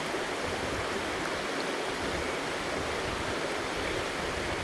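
Steady rushing of a small burn flowing over its bed.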